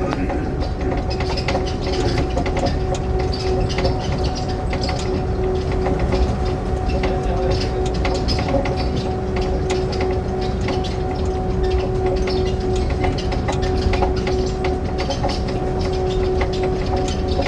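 Inside a moving passenger rail car: a steady low rumble with a constant motor hum, and scattered clicks from the wheels on the track.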